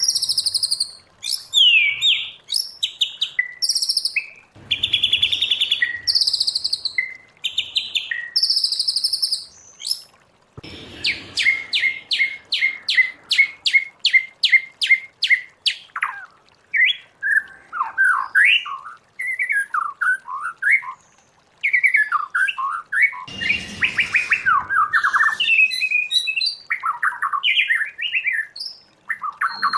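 White-rumped shama singing its varied, loud whistled song. Partway through, a rapid run of repeated notes comes at about four a second, followed by lower, warbled gliding phrases.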